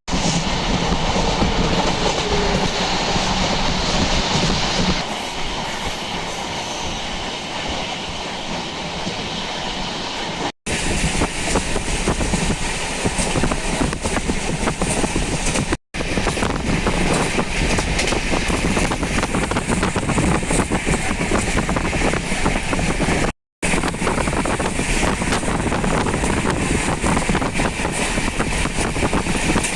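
Moving passenger train heard from aboard: a steady running rumble with wheels clattering over the rails. It breaks off in three short silent gaps where the clips are cut together.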